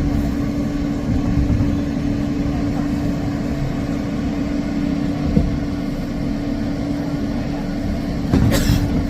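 Inside a New York City subway car standing at a station: a steady hum with one clear tone over a low rumble. A short, louder burst of noise comes near the end.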